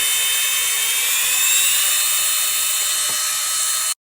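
Cordless handheld vacuum cleaner running on its highest power setting: a steady high-pitched motor whine over a rush of air, its pitch creeping slightly upward. It cuts off abruptly near the end.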